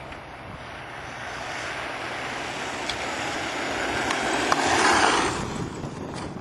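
XTM MMT electric RC monster truck with a Neu 1521 brushless motor on 10S, making a full-speed pass: a rushing motor and tyre noise that grows louder as the truck approaches, peaks about five seconds in, and falls away quickly as it goes by.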